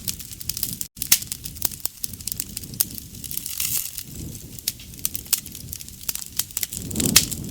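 Campfire burning: wood crackling and popping in many sharp snaps, with a low rush of flame swelling up twice. The sound cuts out completely for a split second about a second in.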